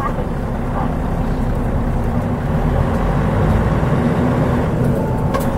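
Mitsubishi Fuso Aerostar bus's 6M70 turbocharged six-cylinder diesel engine running under way, heard from inside the cabin, growing a little louder from about halfway through. A short click comes near the end.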